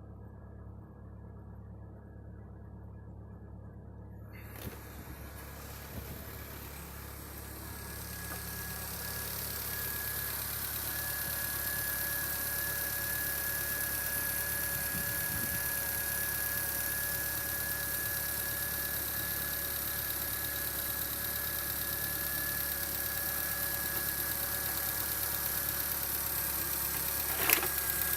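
VW Passat B4's 1.8-litre ABS four-cylinder petrol engine running at idle. It grows louder over the first ten seconds or so, then runs steadily with a faint constant whine. There is one sharp click near the end.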